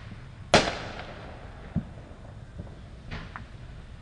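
Fireworks exploding: one loud, sharp bang about half a second in that echoes away, followed by a couple of fainter, more distant bangs.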